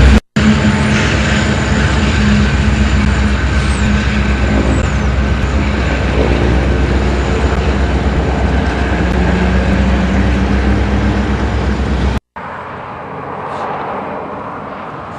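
Diesel locomotive running loudly with a steady low rumble and engine drone. The sound cuts off briefly just after the start, and again near the end, where a much quieter scene follows.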